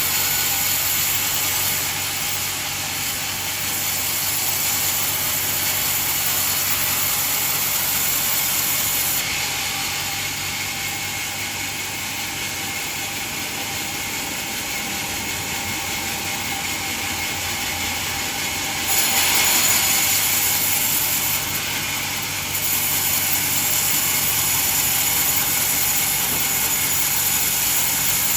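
Band sawmill running while sawing coconut wood: a steady, hissing machine noise that drops and rises in loudness several times as the cut goes on.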